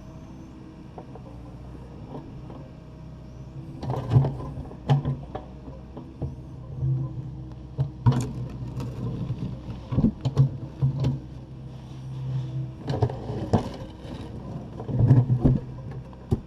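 Takeuchi TB260 excavator's diesel engine running under load, with clusters of loud clanks and scrapes as the bucket breaks up and lifts concrete floor slab, about 4, 8, 10, 13 and 15 seconds in.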